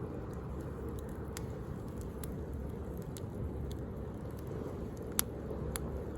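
Wood bonfire crackling with scattered sharp pops, the loudest about five seconds in, over a steady low rush of sea waves.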